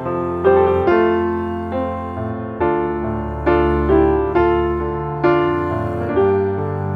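Background music: a gentle piano melody, notes struck about once or twice a second and left to ring out.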